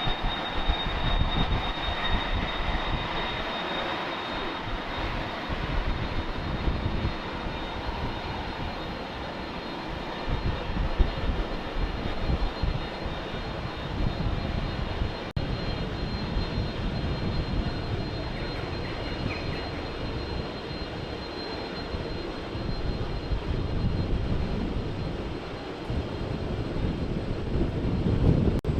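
Jet airliner's engines running: a steady rumble with a thin high whine over it.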